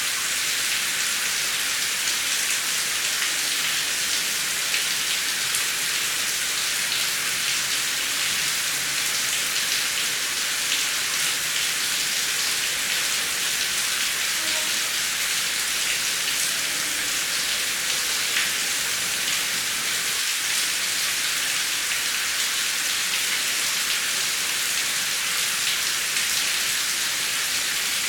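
Steady heavy rain: an even, dense hiss with faint scattered drop ticks and no thunder.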